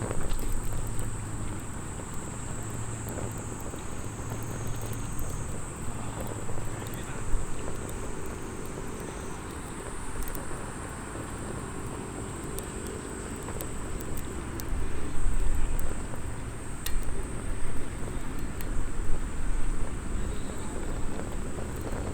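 Small wood fire burning in a mini fire stand, giving a few sharp crackles, over a steady rush of wind against the microphone that gusts harder in the second half.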